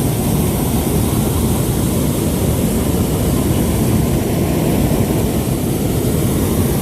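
Hot air balloon propane burner firing in one long, steady blast.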